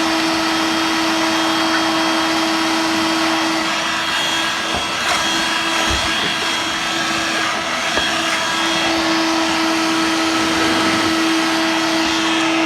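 Dirt Devil Vibe 3-in-1 corded stick vacuum, in handheld mode, running steadily with a constant motor whine over a rushing air sound as it sucks up cat litter, with a few faint knocks in the middle.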